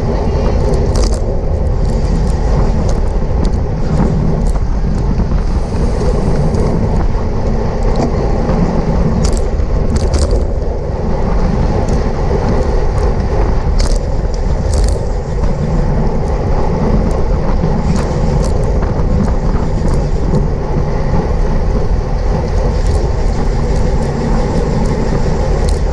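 Steady rush of wind and road noise picked up by a camera on a racing bicycle at speed, with scattered sharp clicks.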